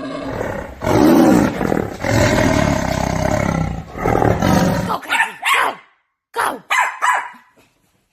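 Animal roaring and growling in long, deep, rough calls, followed by several short, sharp calls in the last few seconds.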